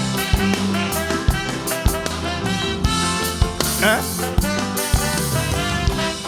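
Calypso band playing an instrumental break between sung verses, with pitched instruments over a steady drum beat and a short rising slide of notes about four seconds in.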